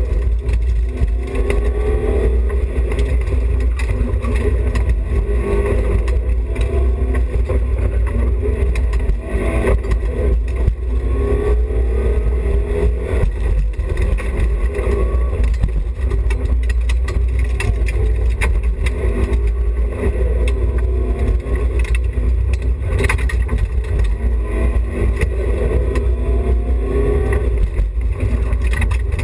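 BMW E30 316i's four-cylinder engine driven hard on a rally stage, its revs repeatedly climbing and dropping as it is worked between gears. There is a heavy low rumble throughout and a few sharp knocks.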